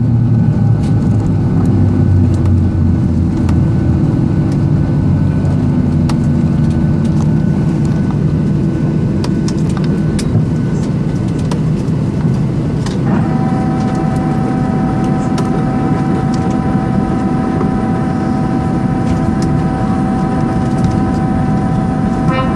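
Cabin noise of a Boeing 737-800 after landing: a loud, steady rumble from the engines and airframe, falling in pitch over the first few seconds as the engines wind down, with light rattles and clicks. About halfway through, a steady whine of several high tones sets in.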